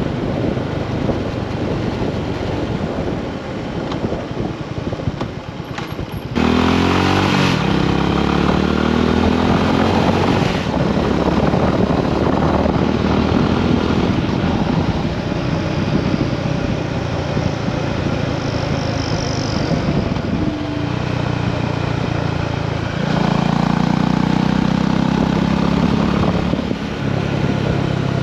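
Honda GB350S single-cylinder engine running under way on newly fitted NGK spark plugs. About six seconds in it gets suddenly louder and climbs in pitch as it accelerates, and the engine note steps up and down a few more times later on.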